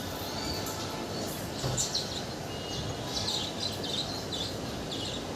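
Birds chirping in short, repeated calls over a steady background noise.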